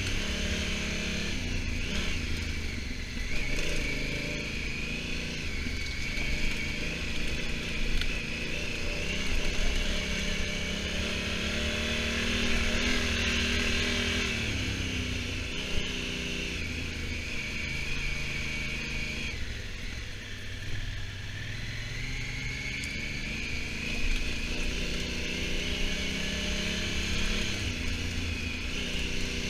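Honda Africa Twin's twin-cylinder engine running at riding speed. Its pitch climbs and drops several times as it accelerates and shifts gear, with the biggest drops about 14 and 20 seconds in.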